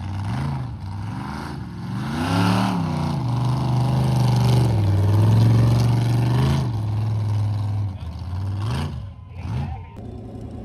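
Mega truck engine revving hard in a mud bog: several quick rev blips, then held at high revs for about three and a half seconds before dropping back, with two more short blips near the end.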